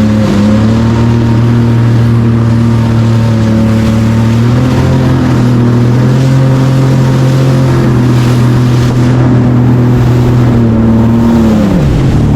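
Jet ski engine running steadily at speed, with a hiss of water and wind. Near the end the engine note drops sharply and picks up again.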